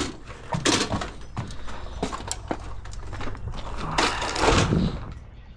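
Scattered light knocks and clicks of things being handled and set down, with a louder scraping rustle about four seconds in.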